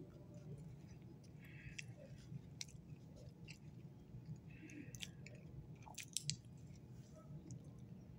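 A person chewing a mouthful of cookie, faint, with scattered small mouth clicks and a couple of sharper ones about six seconds in.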